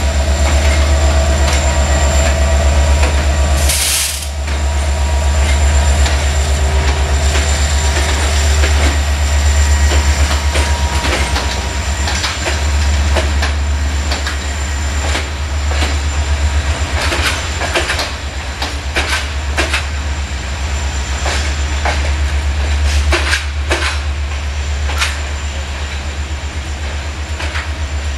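Diesel-electric locomotive hauling a train past at low speed, its engine giving a steady low drone. There is a brief high hiss about four seconds in, and in the second half the wheels click over rail joints.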